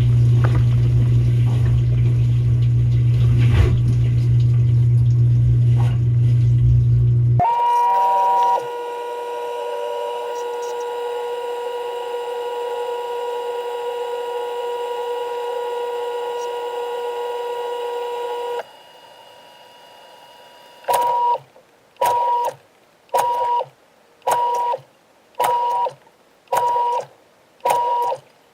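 Dishwasher pump motor running with a steady low hum and water noise, cutting off abruptly about seven seconds in. A steady electronic tone then sounds for about ten seconds, followed by seven short beeps at the same pitch, about one a second.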